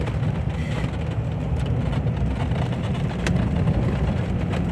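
Truck driving slowly on a snow-covered road, heard from inside the cab: a steady low rumble of engine and tyres, with a short sharp click about three seconds in.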